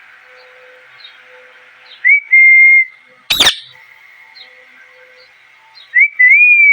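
Indian ringneck parrot whistling. About two seconds in, a short rising note levels into a held whistle; a second later comes one short, sharp shriek. Near the end another rising note leads into a held whistle that slowly drops in pitch.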